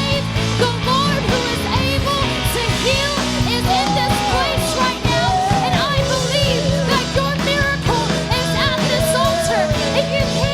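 Worship band music with electric guitar, a full band and a steady beat; a sung or lead melody line glides over it.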